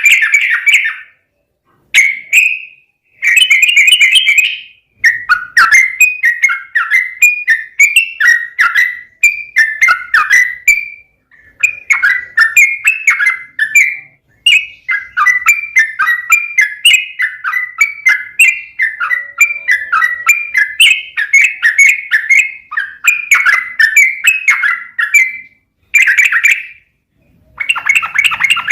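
Yellow-vented bulbul (trucukan) singing: fast runs of short, warbled notes, repeated with brief pauses between phrases.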